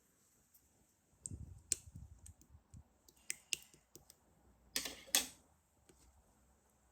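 Scattered light clicks and taps, then two louder, brief rustles about five seconds in.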